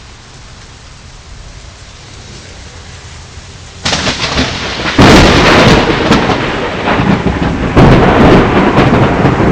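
Steady rain hiss, then about four seconds in a lightning strike's thunder breaks in suddenly and very loudly, jumps louder again a second later, and keeps rumbling with another surge near the end.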